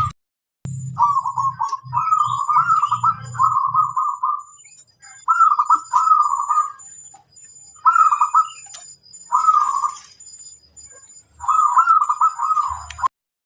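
Zebra dove (perkutut) cooing: about six rolling, trilled phrases with short pauses between them. A faint steady high tone runs underneath, and the sound cuts out briefly just after the start and again just before the end.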